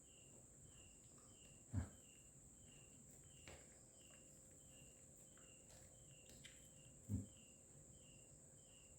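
Faint, even insect chirping, about two short chirps a second, over a steady high-pitched hiss. Two soft low thumps sound about two seconds in and again about seven seconds in.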